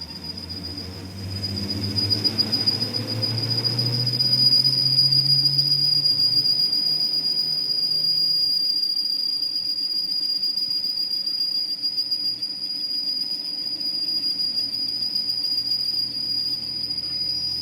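A workshop machine running, with a steady high-pitched whine throughout and a low hum that builds over the first few seconds and then eases off.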